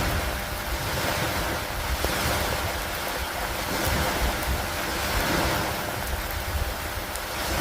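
Steady rain and wind over lake water, the wash swelling and easing every two or three seconds over a constant low rumble.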